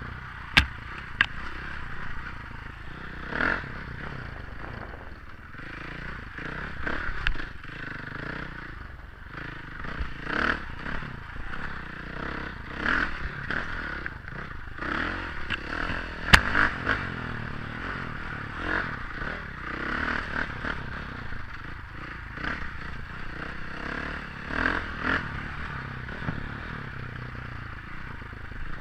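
KTM 500 dirt bike being ridden over rough trail, its engine running under steady noise that swells and eases, with frequent clatter and scraping. Two sharp knocks stand out, one just after the start and one about sixteen seconds in.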